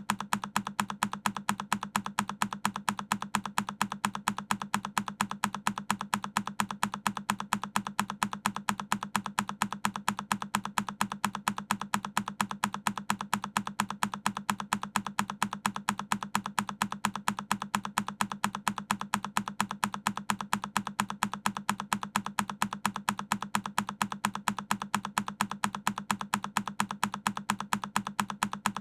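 A single key on a Keychron K10 mechanical keyboard being pressed over and over, each press a sharp click, repeating in a fast, even rhythm.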